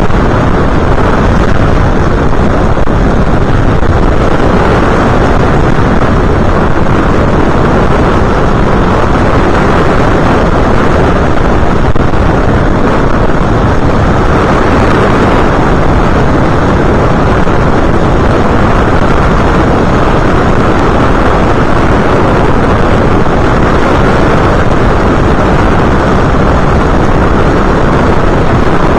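Loud, steady rush of airflow buffeting the microphone of an onboard camera on an FPV model aircraft in flight, with no distinct motor tone standing out.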